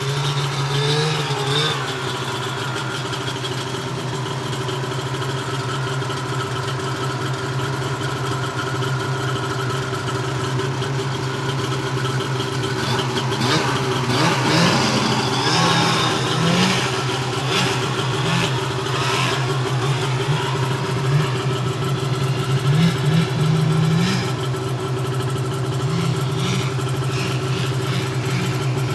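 Ski-Doo MXZ snowmobile engine running steadily, revving up in pitch several times through the middle stretch.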